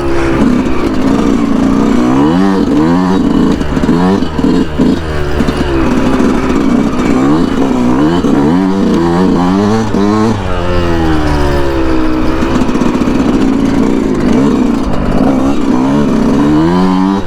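2019 Yamaha YZ125 single-cylinder two-stroke engine under way on a trail ride, revving up and dropping back over and over as the throttle opens and closes through the gears, with one longer fall and climb about ten seconds in.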